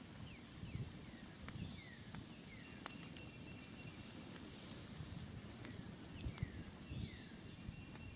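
Smoldering wood campfire crackling with scattered sharp pops, while a bird repeats short whistled notes that slide down in pitch, a few times a second in loose runs, over a low rumble.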